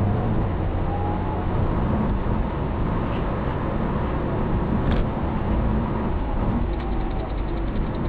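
A car driving, heard on a dashcam: steady engine and road rumble, with one light click about five seconds in.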